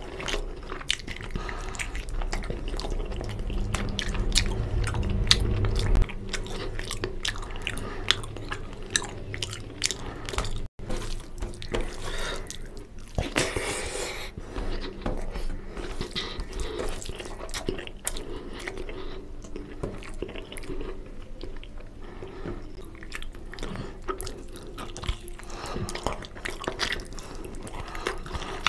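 Close-miked eating sounds: biting and chewing mutton leg-piece meat and curried rice, with many short, wet mouth clicks.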